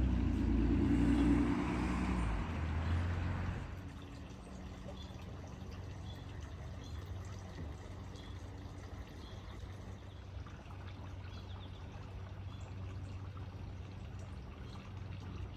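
Water pouring and trickling steadily, as in watering garden beds. A louder low engine-like hum fades out about four seconds in.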